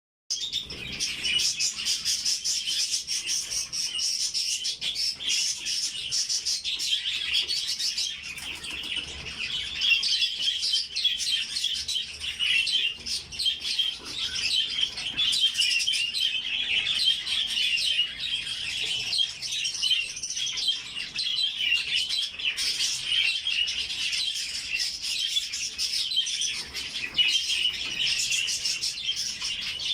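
A flock of budgerigars chattering, many birds chirping and warbling at once without pause.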